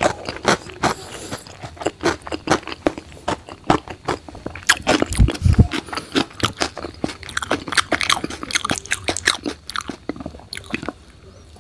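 Close-miked chewing and mouth smacking with crunchy bites, a mouthful of rice and fried food being eaten, in a dense run of irregular clicks and crackles. A brief low thump about five seconds in.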